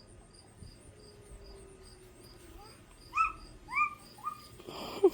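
A cricket chirping steadily in the background, about two and a half high chirps a second. Around three seconds in, three short, high, rising-then-falling calls cut in, the loudest sounds here, followed by a brief loud burst near the end.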